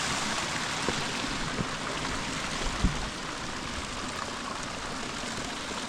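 Steady rush of flowing water from a canyon stream and its waterfalls, with a few soft knocks, the loudest about three seconds in.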